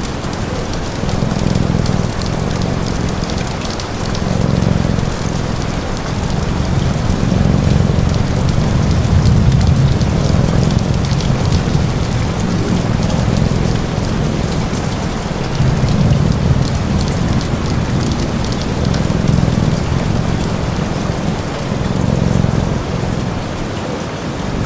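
Steady rain mixed with a crackling fire and a cat's low purr, the purr swelling and fading every two or three seconds with its breathing.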